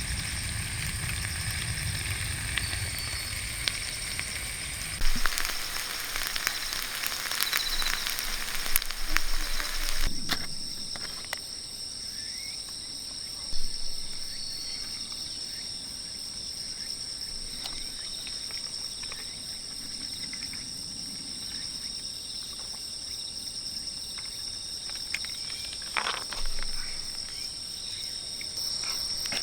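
Steady high-pitched chorus of crickets and other night insects. For the first ten seconds it is joined by dense crackling and sizzling with sharp clicks, which then thins to occasional clicks.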